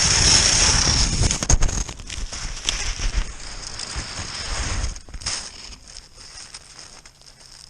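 Cross-country skis hissing and scraping over snow on a fast downhill run, with wind rumbling on the microphone and a few sharp knocks. The noise dies down about five seconds in as the skier comes to a stop.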